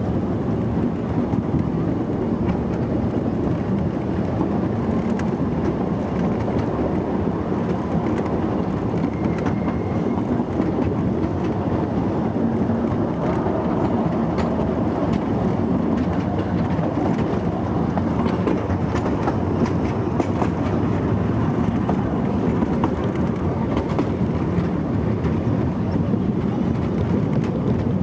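Narrow-gauge park railway train rolling along steadily, heard from aboard: a continuous rumble of wheels on track with scattered clicks as the wheels run over rail joints.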